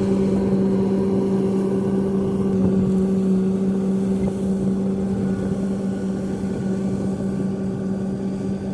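A rice harvester running steadily: a constant engine hum with a strong low drone, gradually getting quieter.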